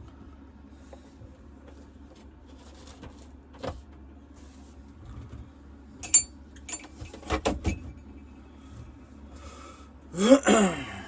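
Scattered clicks, then a few sharp knocks and clatters of things being handled, followed near the end by a short, loud voice-like whine that wavers up and down in pitch.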